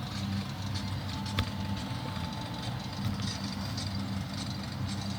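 A car engine idling, a steady low hum, with one sharp click about a second and a half in.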